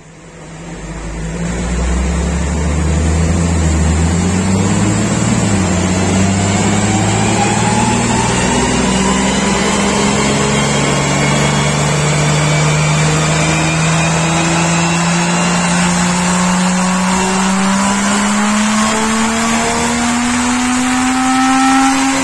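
Nissan Patrol 4800 VTC's 4.8-litre straight-six engine running under load on a chassis dynamometer, its note climbing slowly and steadily in pitch as the revs build. A higher whine rises along with it.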